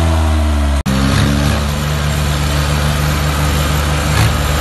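Tractor engine running, its pitch sinking slightly, then after a sudden brief break about a second in it settles into a steady idle.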